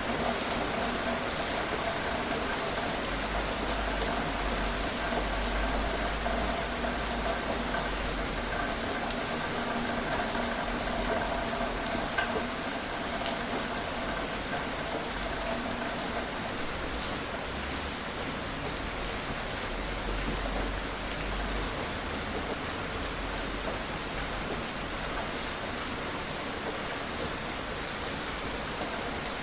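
Gentle rain falling steadily, an even hiss with scattered small drop ticks.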